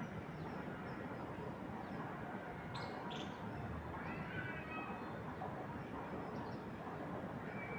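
Steady wind hiss through trees with a few short bird chirps: two quick sharp chirps about three seconds in, then a wavering call a second later.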